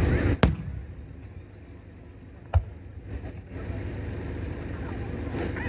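Aerial firework shells bursting: two sharp booms about two seconds apart, over a low rumble that dies down after the first boom and swells again near the end.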